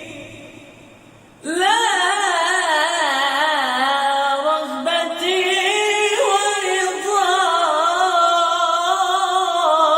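Solo male voice singing a long, ornamented Arabic melismatic phrase with wide vibrato. A held note fades away, and a new phrase enters about a second and a half in and is sustained to the end.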